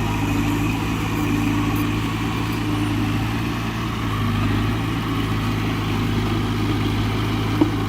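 Heavy diesel machine engine idling steadily with a low, even hum. A single short click sounds near the end.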